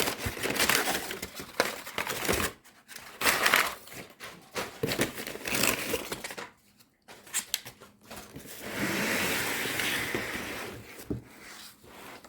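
A cardboard shipping box being opened by hand: irregular bursts of tearing and crinkling packing material, with a longer steady rasp about nine seconds in.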